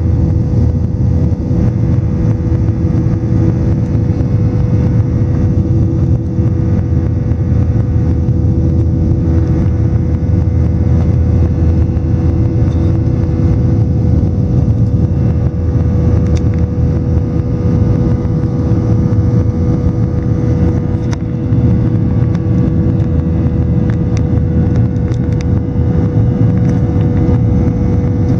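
Boeing 737 jet engines at high thrust during takeoff, heard inside the cabin: a steady loud rumble with a constant hum running through it.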